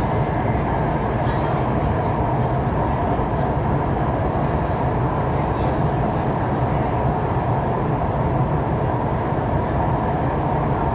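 MTR East Rail Line R-Train electric multiple unit running at speed between stations, a steady rumble of wheels on rail and traction equipment heard from inside the carriage.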